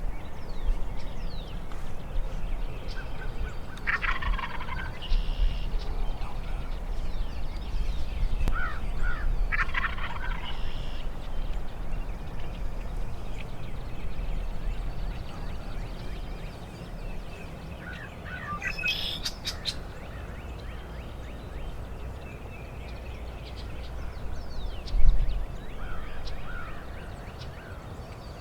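Wild turkey toms gobbling: three loud gobbles about 4, 10 and 19 seconds in and a fainter one near the end, over a steady low rumble, with a single thump shortly before the last gobble.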